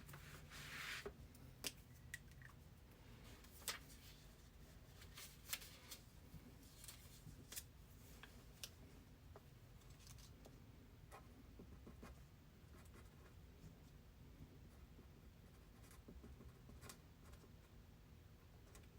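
Near silence: faint room tone with a low hum and scattered soft clicks.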